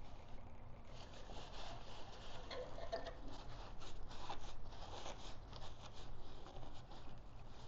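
Irregular small clicks, taps and scrapes of hand work on the motorcycle's fuel system parts, over a low steady background hum.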